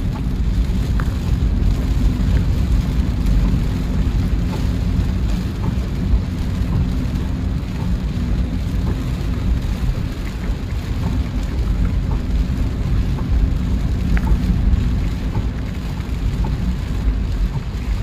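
Heavy rain on a car driving along a highway: a steady low road-and-engine rumble under the hiss of the rain, with a few scattered drop ticks.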